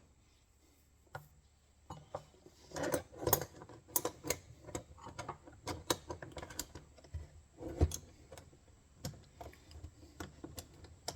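Irregular light metallic clicks and taps from the steel parts of an MB-550 foothold trap as a bent piece is worked back into shape.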